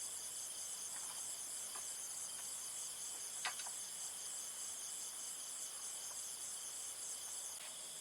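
Insects trilling in chorus: a steady, high, evenly pulsing buzz, with a few faint short chirps and one sharper chirp about three and a half seconds in.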